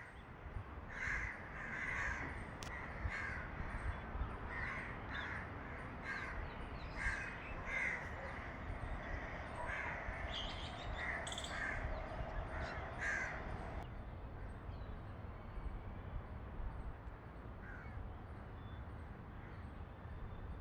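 Crows cawing over and over, a string of short harsh calls that stops abruptly about fourteen seconds in.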